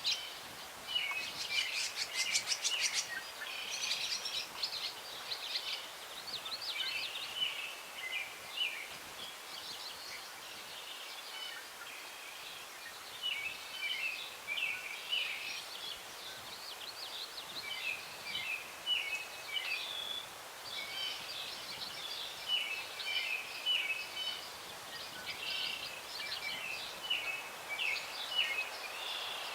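Chorus of several songbirds singing at once, short chirps, whistles and trills overlapping throughout, with a rapid high trill about two seconds in.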